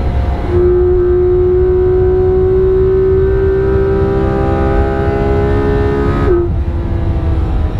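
Porsche 991.2 GT3 RS's naturally aspirated flat-six at high revs under full throttle, heard from inside the cabin, its pitch climbing slowly through a long gear. About six seconds in the pitch drops sharply with a gearshift and the engine pulls on at lower revs.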